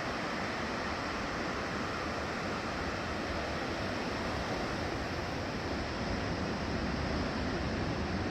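Ocean surf, a steady rush of breaking waves, with wind on the microphone; it swells slightly near the end.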